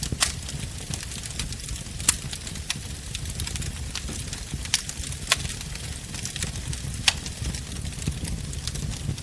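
Wood bonfire burning: a steady low rumble of flames with frequent sharp crackles and pops of burning wood, the loudest about two, five and seven seconds in.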